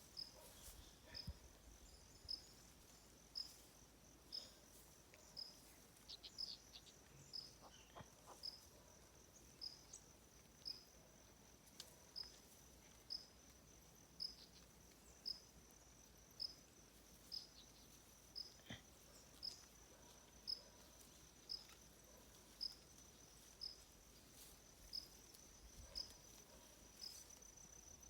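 Insects calling faintly: a steady high trill with a short high chirp repeating about once a second.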